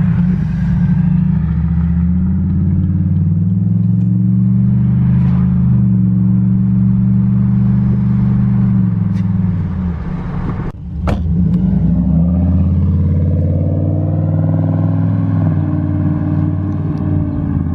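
2008 Chevrolet Impala SS's 5.3-litre LS4 V8 revved through a straight-piped exhaust with the mufflers removed: held at raised revs for several seconds, let off about ten seconds in, then revved up again with the pitch rising and falling.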